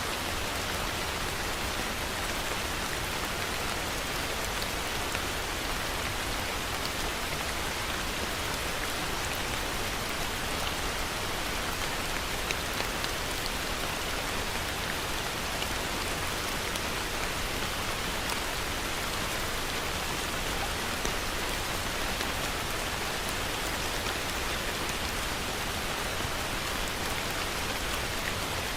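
Heavy rain falling steadily, an even hiss with individual drops ticking through it.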